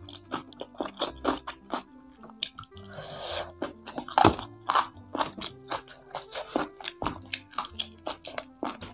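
Close-miked chewing of crispy Indonesian fried chicken (ayam kremes) and its crunchy kremesan crumbs: a series of short crunches, over background music.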